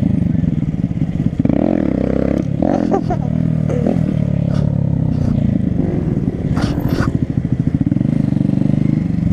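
Honda Grom's small single-cylinder engine running steadily, its pitch rising and falling a little, with a few light clicks.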